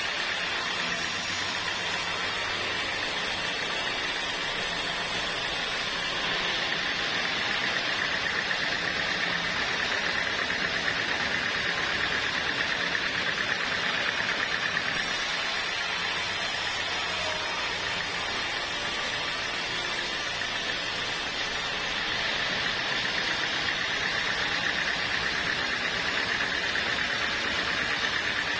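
Sawmill machinery running steadily, a continuous mechanical noise with a high, even whine throughout.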